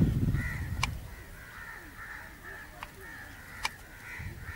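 Birds calling over and over in short, repeated notes. There is a low rustle of footsteps and camera handling on dry ground at the start, and two sharp clicks, about a second in and near three and a half seconds.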